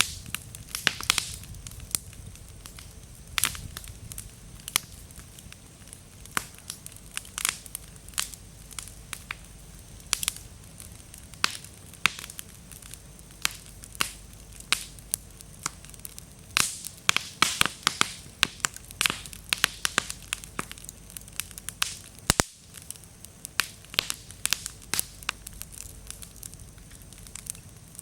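Bonfire of slightly damp firewood burning with a low steady rumble and constant crackling, broken by frequent sharp pops as the wood bursts and throws sparks, with a thick run of pops a little past halfway.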